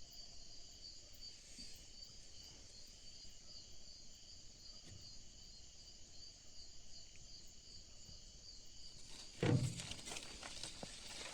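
Night chorus of crickets and other insects, a steady high-pitched pulsing trill. About nine and a half seconds in, a sudden louder noise breaks in, followed by a scatter of crackles.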